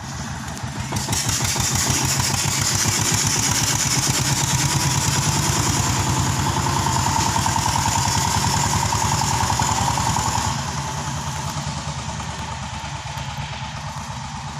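Eicher 241 tractor's single-cylinder diesel engine running steadily, a rapid even chug of firing strokes. It grows louder in the first second and drops somewhat quieter about ten seconds in.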